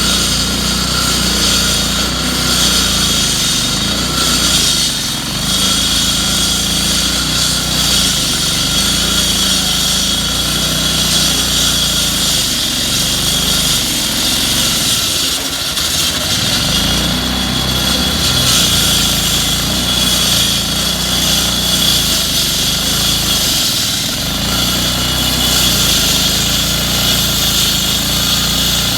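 Road-works machinery running steadily: an engine note underneath and a harsh high-pitched noise on top, easing off briefly about halfway through.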